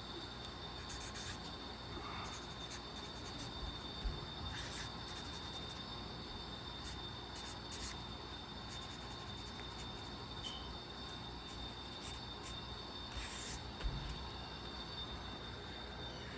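Sketching strokes on paper: short, uneven scratching strokes in scattered runs, over a steady faint high whine.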